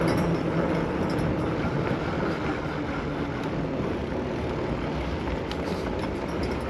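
Steady noise of heavy road traffic, mixed with wind and tyre noise from riding an electric bike alongside it.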